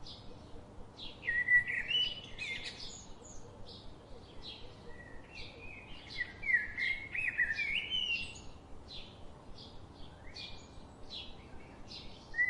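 Birds chirping and twittering: many short quick notes and little gliding calls, with livelier bursts about a second in and again in the middle.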